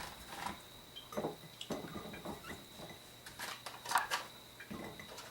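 Hot peppers being handled and packed into a jar: irregular light clicks, knocks and rustling, with a few sharper knocks a little past the middle.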